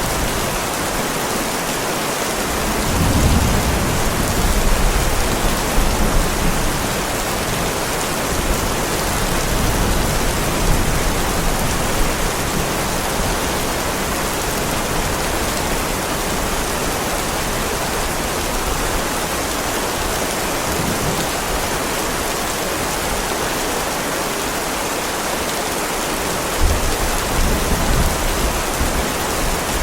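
Heavy rain falling steadily on a driveway, with low rolls of thunder about three seconds in and again near the end.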